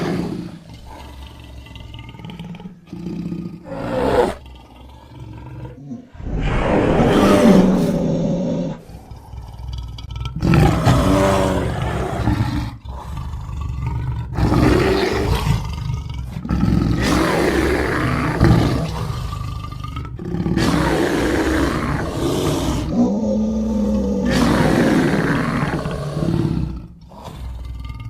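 Monster roars and growls, built from layered big-cat, boar and bear recordings: a string of about seven separate roars with short gaps between them.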